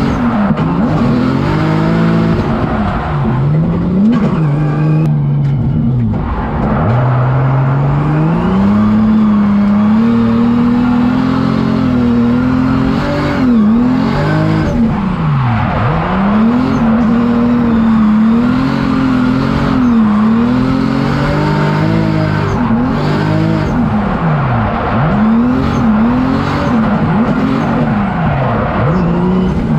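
Drift car's engine revving hard, its pitch climbing and dropping over and over as the throttle is worked, with a few spells held at high revs.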